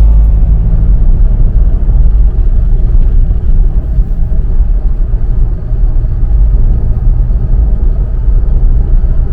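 Loud, steady low rumble of a vehicle driving: road and drive noise with no distinct engine note. It cuts off suddenly at the very end.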